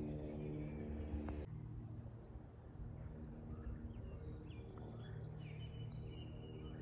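Small birds chirping in short, high calls through the second half, over a faint steady low hum. A louder steady humming drone in the first second and a half cuts off abruptly.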